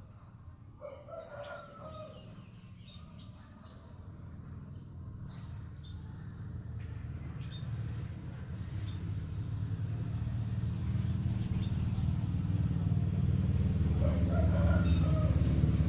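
White-rumped shama (murai batu) singing a run of high, clear whistled notes and quick descending trills. Underneath is a low rumble that grows steadily louder toward the end.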